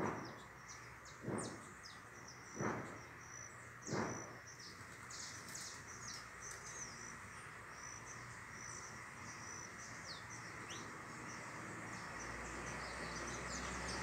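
Birds chirping in many short, high calls, some sliding in pitch. Four dull thumps come about a second and a half apart in the first four seconds, and a low rumble builds near the end.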